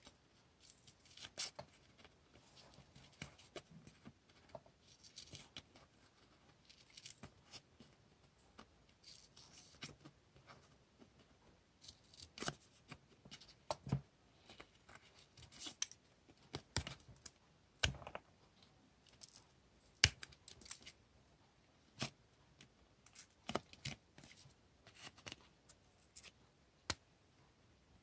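Hands working with paper stationery for diary decorating: scattered light taps and sharp clicks with short, soft rustles of paper, busier in the second half.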